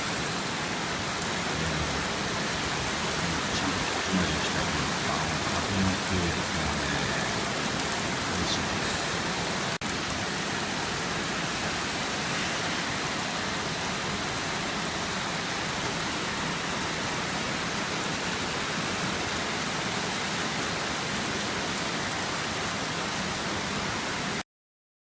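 Torrential typhoon rain pouring down and drumming on a roof in a steady, dense hiss, heavy enough that the roof shows white with spray. A few low thuds come in the first several seconds, and the sound cuts off suddenly near the end.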